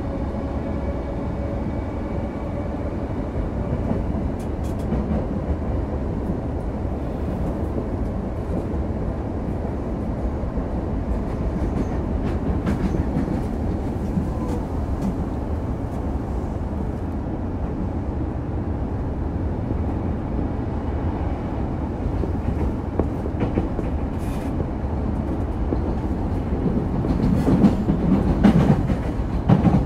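Electric commuter train running at speed, heard from inside the carriage: a steady rumble of wheels on rail. A faint motor whine comes through at the start, and clicks from the rail joints grow louder near the end.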